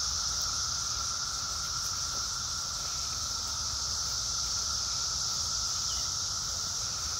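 Chorus of Brood X periodical cicadas: a steady, unbroken drone made of a high hiss-like buzz and a lower, even whine.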